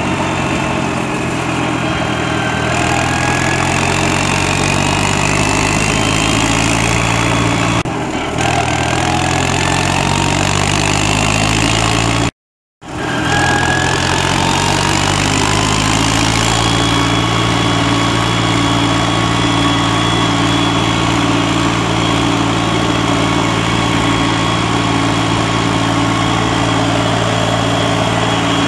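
Holder A55 articulated tractor's diesel engine running steadily, its pitch rising a few times as engine speed picks up. The sound cuts out completely for about half a second some twelve seconds in.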